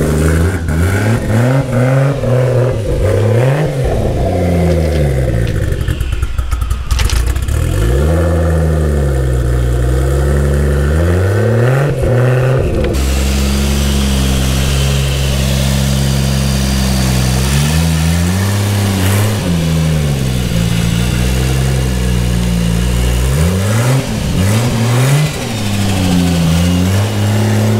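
Turbocharged car engine idling and being revved again and again, its pitch rising and falling with each blip, settling to a steady idle between revs. A steady hiss runs alongside from about halfway through.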